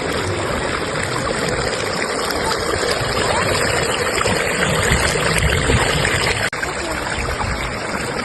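A river current running: a steady rush of flowing water. It cuts out for an instant about six and a half seconds in.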